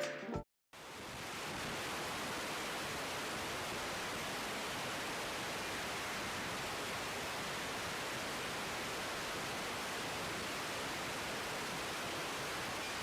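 A steady, even hiss of outdoor background noise at the airfield, with no distinct engine tone, begins about a second in after the intro music cuts off.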